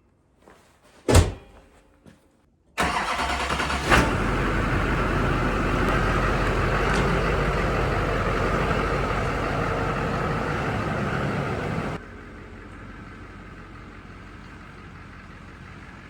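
A knock about a second in, then the Chevrolet Duramax diesel engine comes in suddenly, with a sharp hit about a second later, and runs loud and steady for about nine seconds before the sound drops abruptly to a quieter steady running sound.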